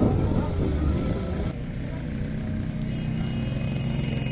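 A motor vehicle's engine running, with a sudden change in the sound about a second and a half in.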